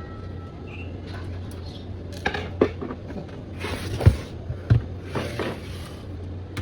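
Knocks and short scraping sounds of a desktop computer case being handled during reassembly, over a steady low hum.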